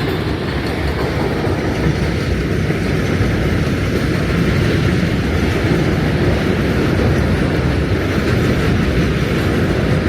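Subway train running: a loud, steady rumble with no pauses.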